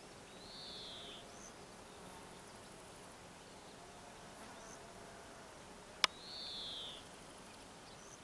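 A bird's short high call, sliding downward, heard twice about six seconds apart over a steady background hiss, with a single sharp click just before the second call.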